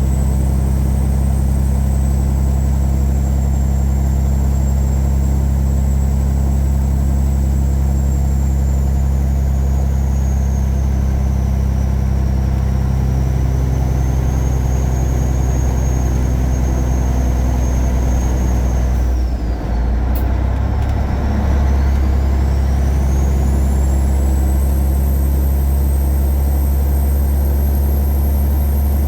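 Caterpillar 3406E turbocharged inline-six diesel in a Freightliner Classic semi truck, running steadily under way with a high turbo whistle over the engine drone. About two-thirds of the way through the engine briefly drops off during a gear change, the whistle sinking and then rising again as it pulls once more.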